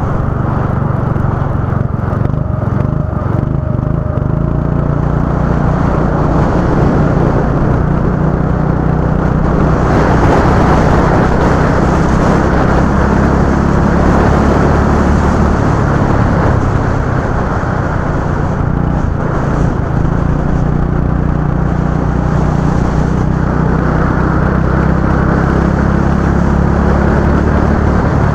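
Go-kart engine running continuously, its pitch stepping up and down several times as the throttle changes, with a rougher, noisier stretch about a third of the way in.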